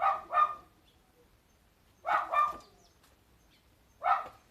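A dog barking in short bursts: a quick double bark at the start, another double bark about two seconds in, and a single bark about four seconds in.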